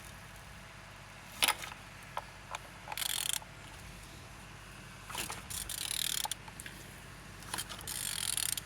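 Engine being turned over by hand with a tool on the crankshaft: a sharp click about a second and a half in, then three bursts of metallic clicking and rasping, the last two each about a second long. The engine turns freely.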